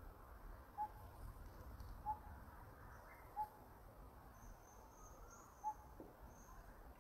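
An outdoor animal call, most likely a bird's, repeating one short note four times, about every one and a half seconds, with a longer gap before the last. Faint high chirping sounds between the later notes.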